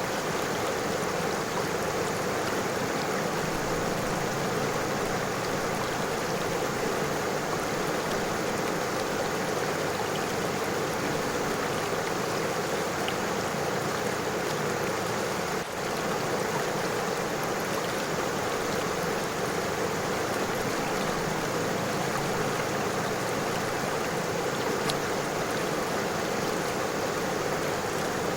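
A river flowing over stones: a steady rush of running water, with a brief dip in level a little past halfway.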